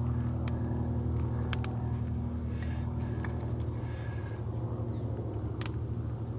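A freshly lit wood campfire crackling, with a few sharp snaps, the loudest about half a second, a second and a half and five and a half seconds in. A steady low hum underlies it throughout.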